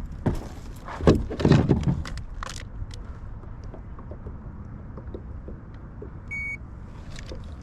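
Knocks and rustling of handling aboard a kayak during the first few seconds, over a steady low rumble, then a single short high electronic beep about six seconds in.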